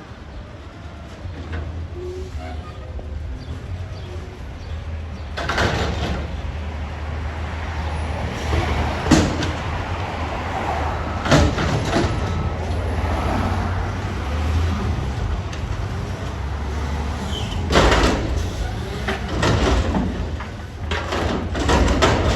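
Garbage truck's diesel engine running with a steady low rumble, broken by several sharp clanks and hisses from its lifting and packing gear at work.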